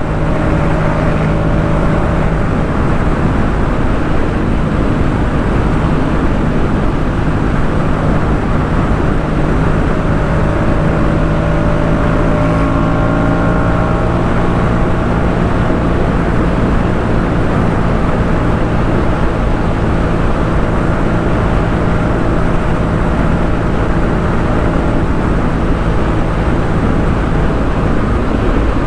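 2018 Yamaha MT-07's parallel-twin engine running steadily at a cruise through a Jeskap K4 full aftermarket exhaust, an even, unchanging drone with no revving or gear changes.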